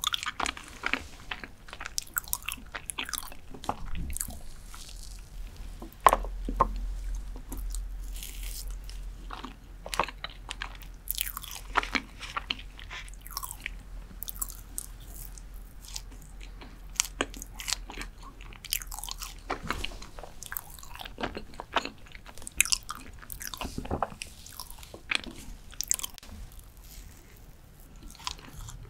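Close-miked ASMR eating sounds: chewing of dark chocolate cheesecake, with many short, irregular wet mouth clicks.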